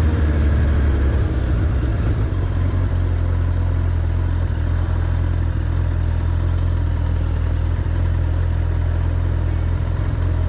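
Suzuki Bandit 1200's inline-four engine running; its note drops in the first second or two, then settles into a steady low run.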